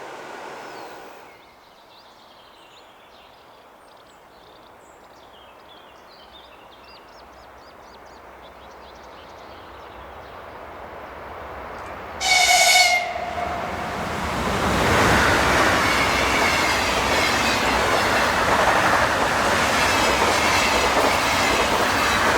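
An electric train approaches with a rising rush, sounds one short, loud horn blast about twelve seconds in, then passes at speed in a loud, steady roar of wheels and rails. Faint bird chirps are heard early on, before the train gets close.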